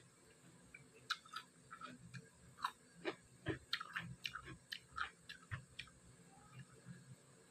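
A person chewing with irregular crunchy, clicking mouth sounds, a few per second, while eating cucumber and dry-fried pork.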